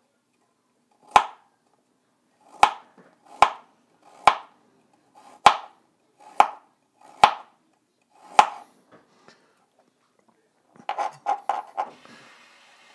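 Kitchen knife chopping fresh ginger on a cutting board to mince it: single sharp chops about a second apart, then a quick run of chops near the end.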